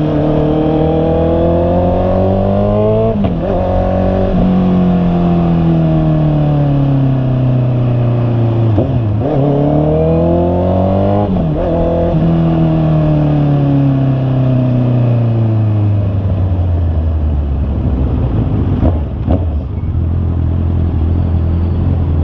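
Honda CB650R's inline-four engine riding through the gears, its note rising and falling with a few quick gear changes. Then it slows and settles to a steady idle for the last few seconds.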